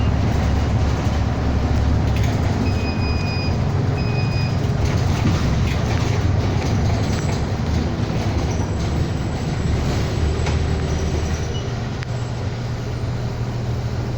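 City bus heard from inside the cabin while driving: a steady low engine drone with road and rattle noise. Two short high beeps sound about three and four seconds in.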